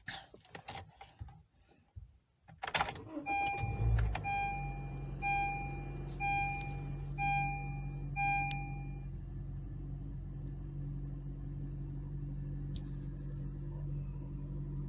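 Car keys and door clicks, then a car's warning chime beeping about once a second, six times, while the engine starts about four seconds in and settles into a steady idle.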